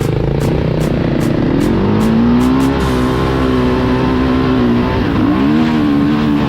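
Dirt bike engine under way, its pitch climbing about two seconds in and holding, then dropping and climbing again a little after five seconds.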